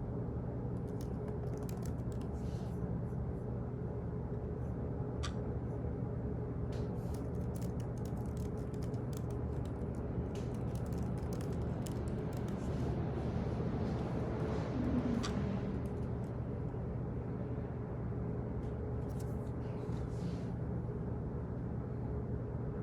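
Office ambience: a steady low hum with scattered bursts of computer keyboard typing clicks.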